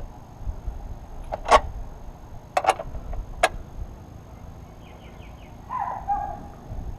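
Sharp metallic clicks and clinks of hand tools on metal in a car's engine bay: four separate knocks in the first half, with low rumbling from parts being handled and a short higher-pitched sound near the end.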